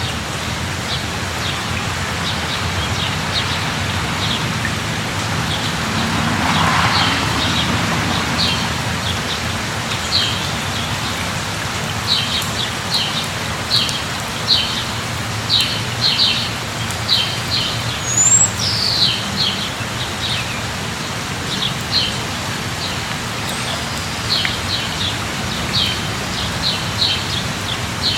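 Steady rainfall with birds chirping over it: short, high chirps repeated in quick runs, coming thicker from about ten seconds in, with a couple of quick sliding calls near the middle.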